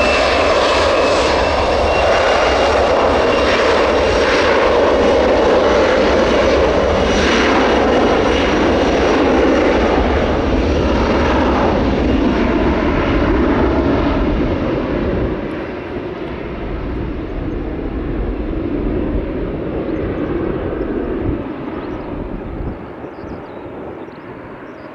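Jet airliner's engines roaring close by with a high whine that rises slightly near the start, then dying away as the aircraft moves off, about two thirds of the way through.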